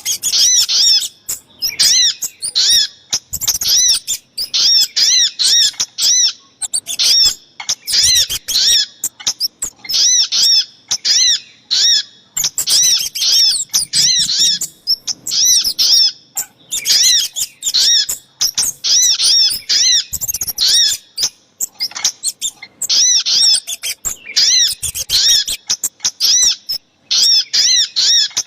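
Bird-lure recording of sogok ontong and kemade calls played together: rapid, high-pitched repeated chirps in quick runs, each lasting about a second, separated by short breaks.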